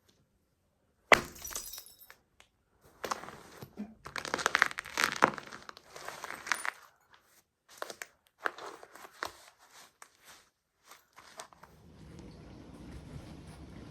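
A model truck cracking and crunching apart under a Fox MX motocross boot. One sharp crack comes about a second in, then a run of crunching and snapping, then scattered snaps of pieces giving way.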